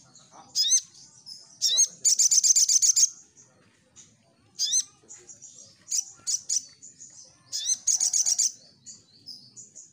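Crimson sunbird (sogon) singing: high, sharp, rising chirps, broken by two fast rattling trills, one about two seconds in and one near eight seconds.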